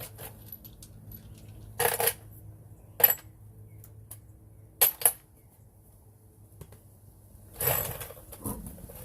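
Metallic clinks and clattering of tools and parts being handled, in four short separate bursts, the longest about eight seconds in.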